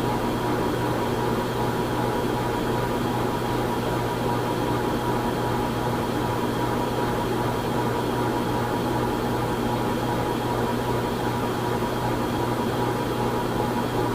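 Ceiling fan running at a steady speed: a constant hum with a thin, steady whine above it and a wash of moving air.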